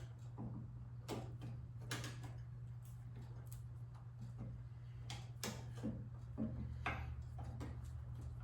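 Scattered light clicks and taps of a screwdriver being worked into a snowblower engine's throttle linkage to wedge the throttle wide open for a compression test, over a steady low hum.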